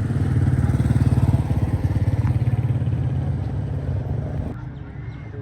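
A motor vehicle engine running close by with a fast, even putter, which cuts off abruptly about four and a half seconds in, leaving quieter outdoor background.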